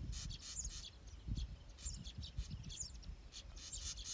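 Weaver birds chattering: many quick, high chirps in rapid succession, over a low rumble.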